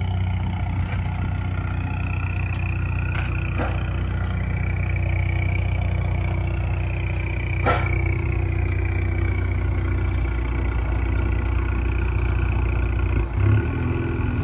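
2016 Ford Mustang's 2.3-litre turbocharged four-cylinder idling steadily through a straight-pipe exhaust, with the mufflers and resonator cut out and the catalytic converter kept. A few faint clicks sound over the low exhaust drone.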